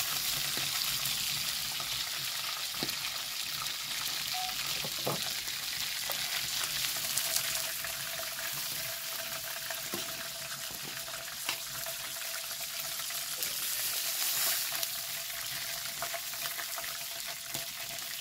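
Food sizzling in a pan over a wood fire: a steady frying hiss with scattered small crackles and pops.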